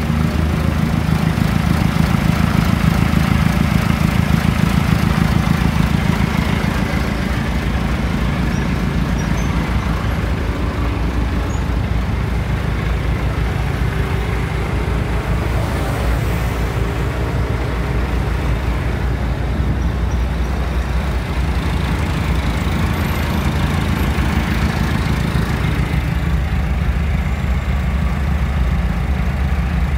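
Massey Ferguson 390 4x4 tractor's diesel engine running steadily at a low, even speed. It is slightly louder for the first few seconds, then holds level.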